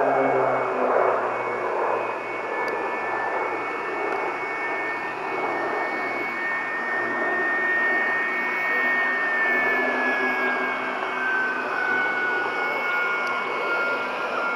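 Formation of display aircraft flying past, with steady engine noise and a thin whine that slowly drops in pitch over the second half as they pass.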